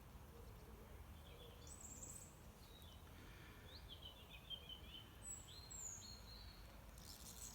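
Faint bird calls, a few short high chirps in scattered groups, over a low steady outdoor background.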